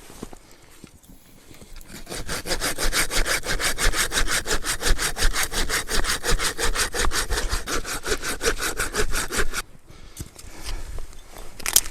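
Hand saw cutting through wood in quick, even back-and-forth strokes, about six a second. It starts about two seconds in and stops suddenly near the end.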